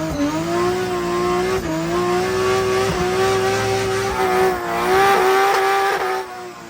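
A car engine held at high revs during a drift, its pitch wavering slightly, over tyre noise; the engine note drops away near the end.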